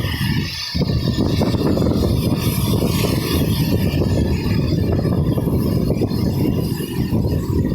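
Heavy rain, a dense steady patter with most of its weight low in pitch.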